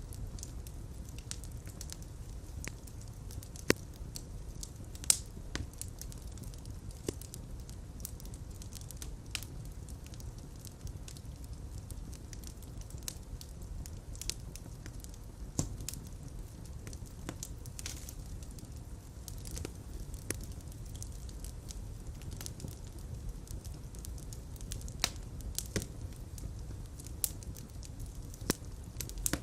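Fire burning in a fireplace: a steady low rumble of flames with irregular crackles and sharp pops, a few of them much louder than the rest.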